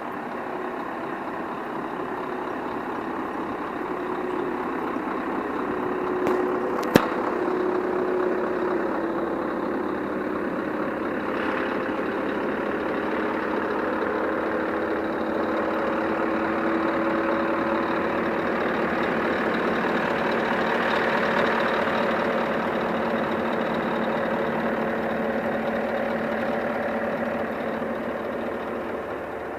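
Scania R500 truck's V8 diesel engine running steadily at low revs, its pitch drifting slightly, with one sharp click about seven seconds in.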